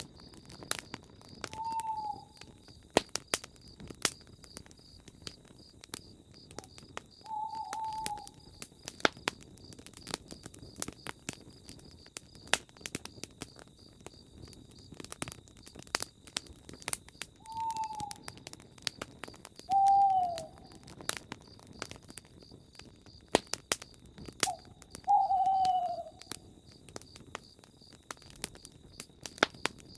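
Campfire crackling and popping throughout, with an owl giving short hoots about five times, and a steady high chirping of crickets.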